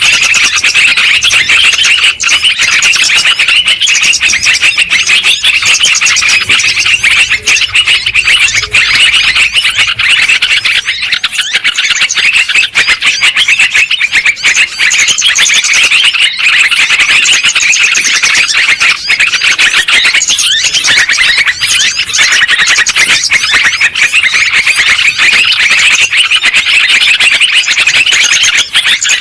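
Many yellow-vented bulbuls chattering and calling together: a dense, loud, unbroken mass of fast chirps and bubbling trills.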